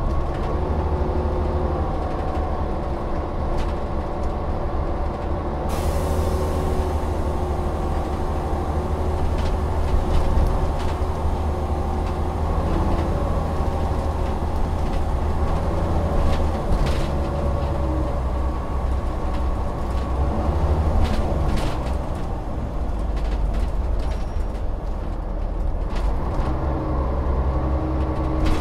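Volvo Olympian double-decker bus engine running, its pitch shifting up and down, with rattles and clicks from the body. A burst of air hiss comes in about six seconds in and fades over a second or two.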